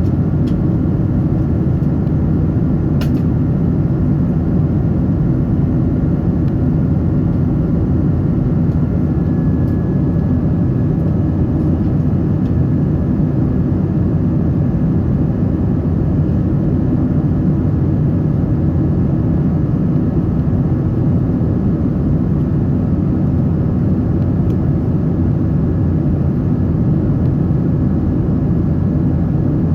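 Steady low cabin noise inside a Boeing 777-300 airliner, engine and air noise holding at one level throughout, with a faint thin tone joining in about a third of the way through.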